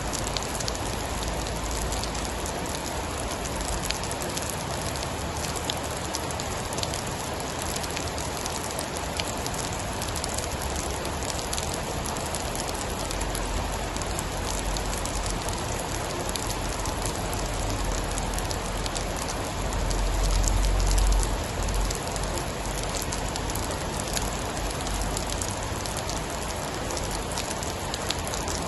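Steady heavy rain with many small sharp drip and crackle sounds. A low rumble of distant thunder builds in the second half and swells loudest about twenty seconds in.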